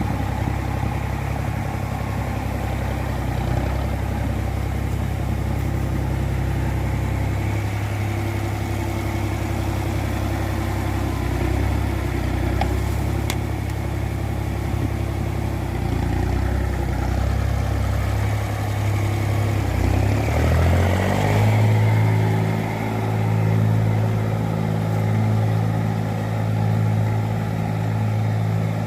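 An engine running steadily; about twenty seconds in its pitch climbs and it settles into a steadier, higher note.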